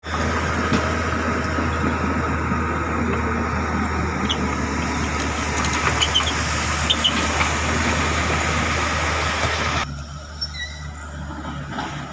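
Caterpillar bulldozer's diesel engine running loud and steady, with dense mechanical clatter and a few short squeaks. About ten seconds in, the sound drops abruptly to a quieter, steady low engine hum.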